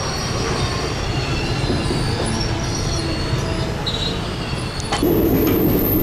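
Indian Railways passenger train rolling slowly out of the station, heard from on board: a steady rumble and rattle of the wheels on the track. About five seconds in it gets louder, with a deeper drone and a couple of sharp knocks.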